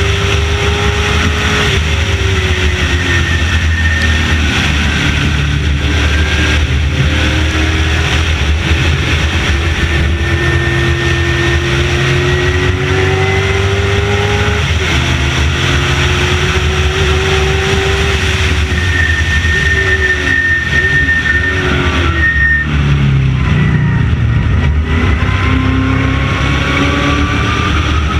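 Late model stock car's V8 engine running hard on track, its pitch repeatedly climbing and falling as the throttle is applied and lifted. It drops low for a few seconds late on, then climbs again near the end.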